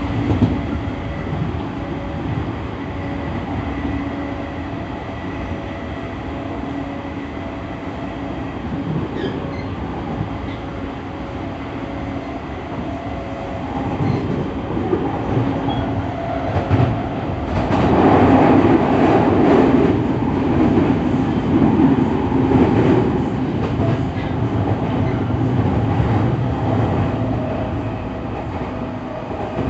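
E231-1000 series electric train running along the line, with a steady hum under the rumble of wheels on rail. About two-thirds of the way through, the rumble grows louder and rougher for several seconds, then eases back.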